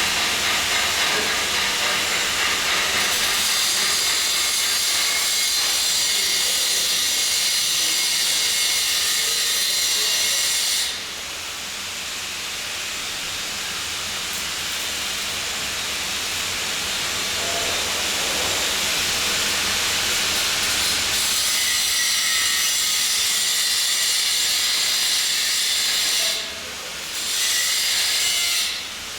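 Welding equipment hissing steadily in long runs. It stops about a third of the way in, starts again about ten seconds later, and breaks off briefly twice near the end.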